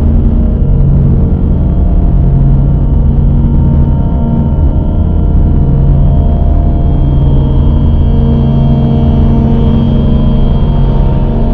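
Dark ambient drone music: a loud, dense low rumble with sustained low tones that slowly swell and recede, and a thin high tone growing in the second half.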